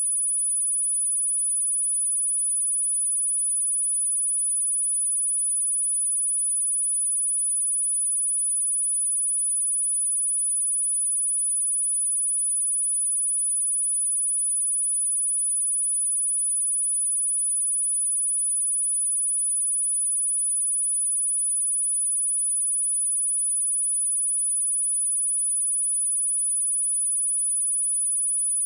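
A continuous, steady, high-pitched pure sine-wave test tone at 9891 Hz, held at an unchanging pitch and level.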